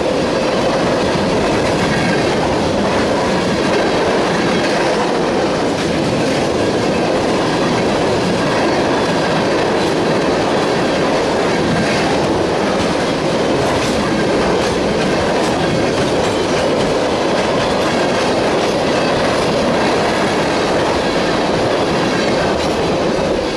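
Empty oil tank cars rolling past steadily on steel rails, a continuous rumble of wheels on track with scattered clicks as the wheels cross rail joints.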